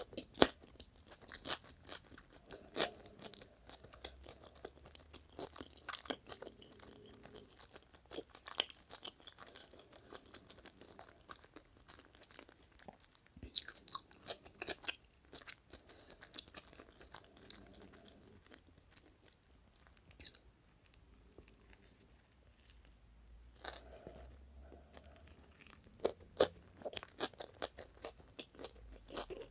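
Close-miked chewing of a sausage sandwich on toasted bread, with many sharp crunches from the crust. The crunching thins to a quieter stretch of soft chewing in the middle, then picks up again near the end.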